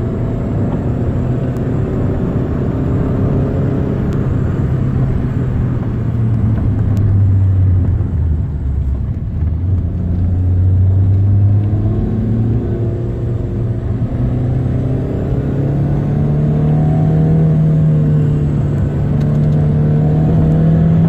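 Peugeot 106 Rallye S1's 1.3-litre four-cylinder petrol engine heard from inside the cabin while driving. The engine note drops about halfway through, then climbs steadily toward the end.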